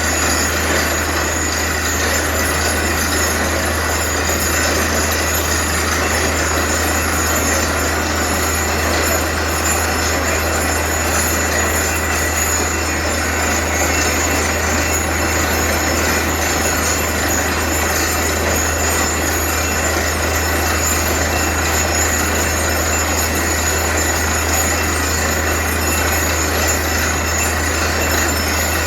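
Truck-mounted borewell drilling rig running steadily: a continuous low engine hum under a loud, even rush of noise, with no break or change.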